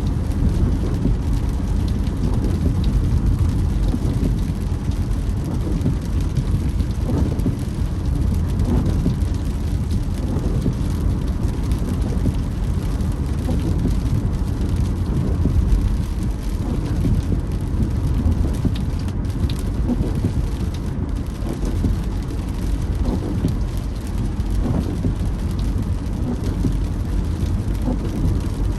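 A car driving in steady rain: rain on the car and tyre and road noise run steadily throughout, with the windscreen wipers creaking as they sweep.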